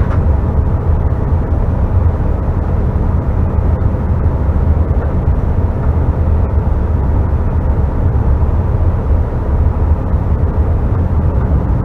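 Cabin noise inside a CRJ900 regional jet on the ground after landing: a steady low rumble from its running engines and air system, with a few faint steady tones above it.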